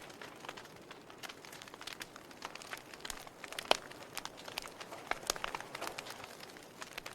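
Fire crackling: irregular sharp pops and snaps over a soft steady hiss, the loudest pop a little past halfway.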